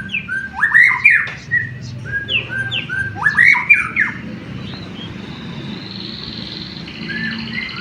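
White-rumped shama (murai batu) singing: short whistled notes with two bursts of loud sweeping calls in the first half, then a rapid buzzy trill through the second half.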